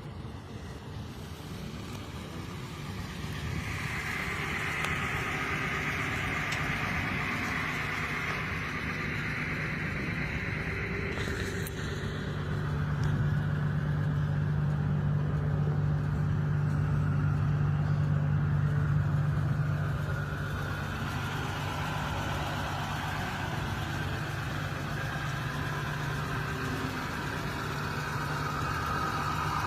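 A motor vehicle's engine idling steadily with a low hum, running a little louder for several seconds in the middle.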